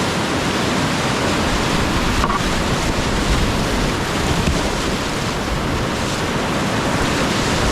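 Whitewater on a mountain river rushing steadily and loudly, with some wind buffeting the microphone.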